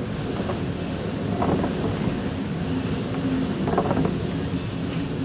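A boat's engine running with a steady low drone, with wind rushing over the microphone.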